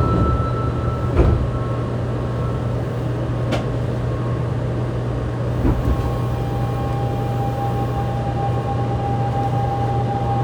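Cabin of a Fukuoka City Subway 2000-series train with a steady hum: the doors shut with a thud about a second in, a sharp click and a low thump follow, and about six seconds in the Hitachi GTO-VVVF inverter starts a steady whine as the train pulls away.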